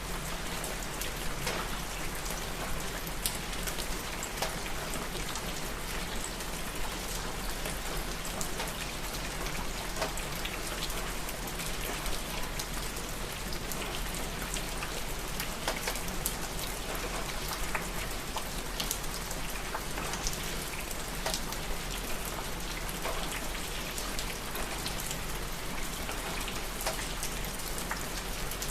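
Steady rain, with many single drops ticking on a hard surface over an even hiss.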